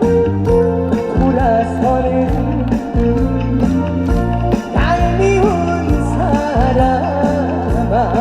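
Live trot backing band playing an instrumental break: a steady bass and beat under a wavering lead melody line.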